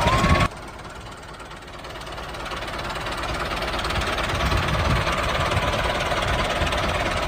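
Engine of a miniature model tractor running steadily, growing louder over the first few seconds. A snatch of music cuts off about half a second in.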